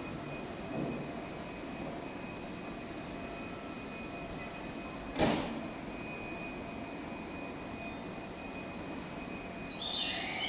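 Electric train standing at a station platform, a steady hum with faint high tones, cut by one short, sharp hiss of air about halfway through. High chirping tones start near the end.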